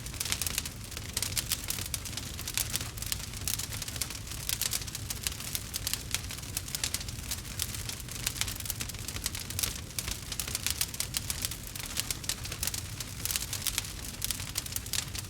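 Campfire crackling steadily, with dense irregular pops and snaps of burning wood over a low rumble of flame.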